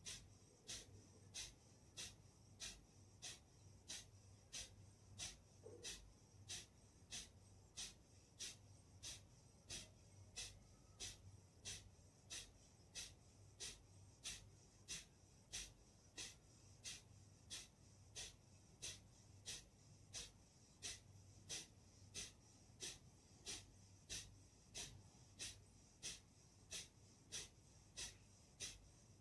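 Kapalbhati breathing: short, forceful exhalations through the nose, pushed out by snaps of the belly, repeating evenly at about three every two seconds with passive inhales between.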